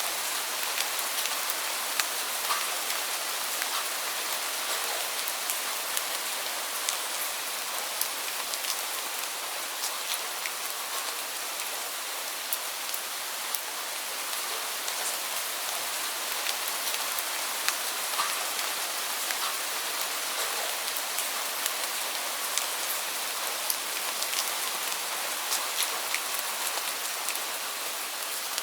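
Heavy rain falling steadily, a dense hiss with many separate drops ticking sharply on a hard surface.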